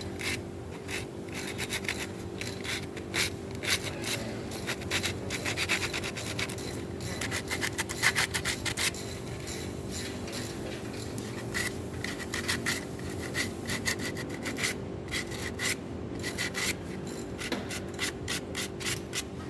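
Sandpaper rubbed back and forth by hand over the edges of a car brake pad, in quick, uneven rasping strokes with a steady hum underneath. The sharp pad edges are being smoothed so they won't dig into the brake disc and cause squealing.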